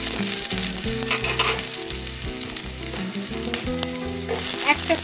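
Freshly sliced onions sizzling steadily in hot mustard oil, just after being added to the pan.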